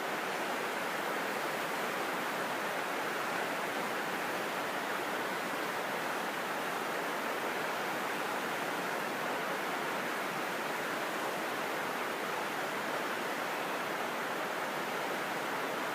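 Steady rushing water of a mountain stream.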